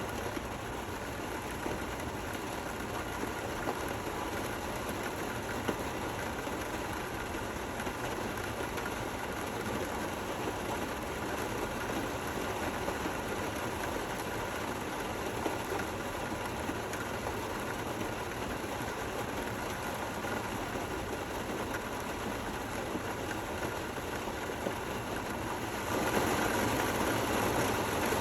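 Steady rain falling with no thunder, growing a little louder near the end.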